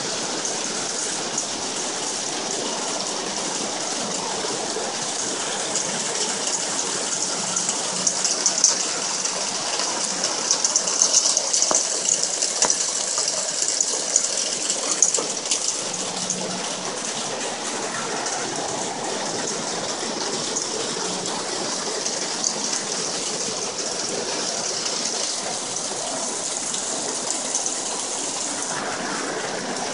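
Heavy rain pouring down hard with thick droplets: a dense, steady hiss, a little louder and more uneven for a few seconds in the middle.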